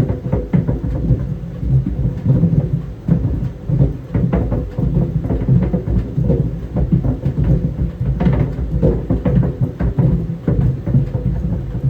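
Tennis balls tumbling in a running clothes dryer, knocking against the drum in irregular dull thuds, several a second, over the dryer's steady low rumble.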